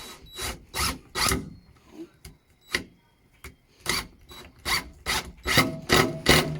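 Handsaw cutting through pallet wood, stroke by stroke: a few spaced strokes, then a steadier run of about three strokes a second from about four seconds in.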